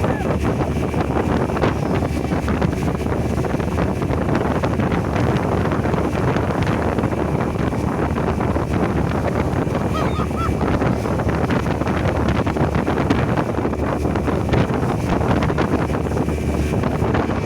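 Powerboat running at high speed: a steady engine drone mixed with wind buffeting the microphone and water rushing past the hull.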